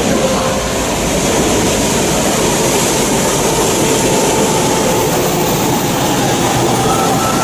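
Steady running noise of a Shinkansen bullet train travelling at speed, a continuous rumble and hiss.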